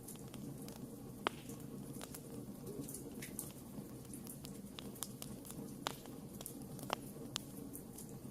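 Wood campfire crackling: irregular sharp pops and snaps over a low steady rush of the flames, with a few louder pops standing out.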